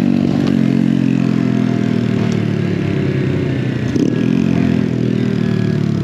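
Mini bike engine running under way. Its pitch falls steadily as it slows off the throttle; about four seconds in there is a brief break, and then the pitch climbs again near the end.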